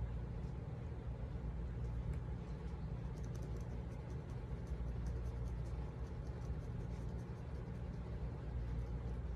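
Steady low background hum, with faint scattered light clicks and taps from hands working with craft tools and paper, clustered about two to four seconds in.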